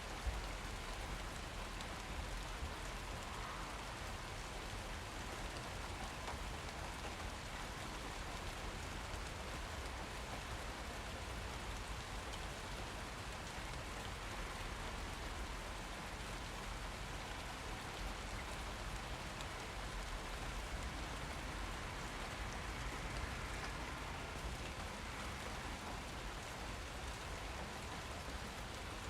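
Steady rain falling, with dense pattering of drops on hard surfaces.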